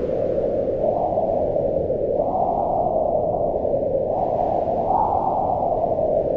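Howling wind: a steady rush with a hollow whistling tone that rises and falls as gusts come and go, swelling about a second in, again at two seconds and near five seconds.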